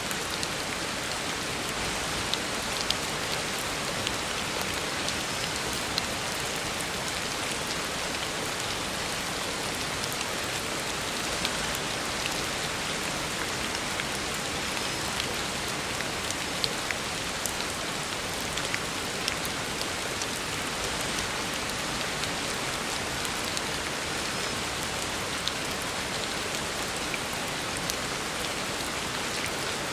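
Heavy rain falling steadily on a road, a dense even hiss with scattered sharper drop ticks.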